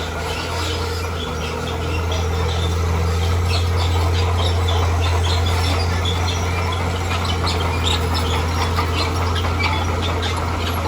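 Heavy earthmoving machine's engine running with a steady low drone that grows louder about two seconds in, with many short high-pitched squeaks over it.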